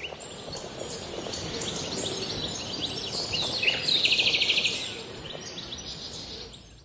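Outdoor bird chirps and calls, with a rapid trill about halfway through, over a steady high hiss. The sound fades in at the start and out near the end.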